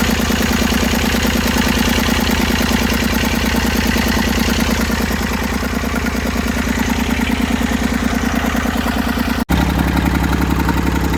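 Massey Ferguson 35's three-cylinder diesel engine running steadily with a fast, even pulse. The sound cuts out for an instant about nine and a half seconds in and comes back as a steadier, lower engine note.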